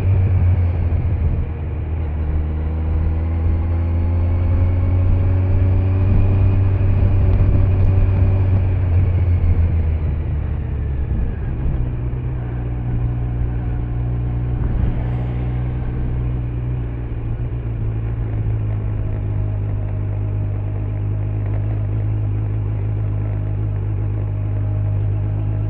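Kawasaki Z900's inline-four engine through its stock exhaust, running at low speed, then easing off and falling in pitch; about halfway through it settles to a steady, even note.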